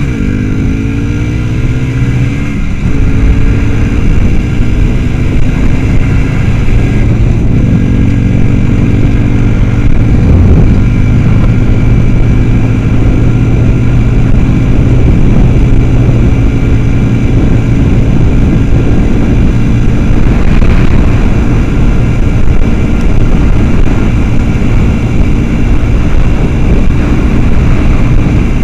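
Motorcycle engine under way, rising in pitch as it accelerates over the first few seconds, then holding a steady cruising note with rough road and wind noise.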